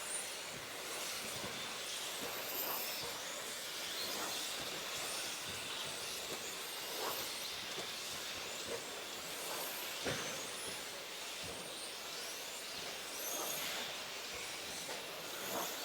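Electric 1/10-scale RC trucks racing around an off-road track: the high whine of brushless motors rising and falling as they accelerate and brake, over a steady outdoor hiss, with an occasional short thump.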